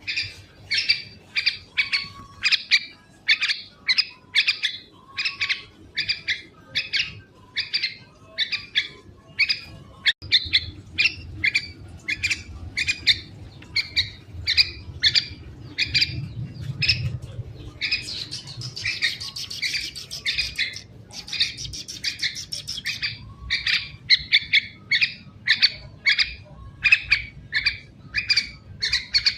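Young yellow-vented bulbul calling over and over in short, sharp chirps, about one and a half a second, coming thicker and harsher for a few seconds past the middle.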